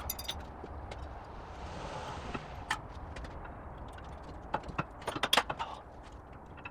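Scattered metal clinks and knocks of hand tools and car parts being handled, busiest about five seconds in, with a brief soft hiss about two seconds in.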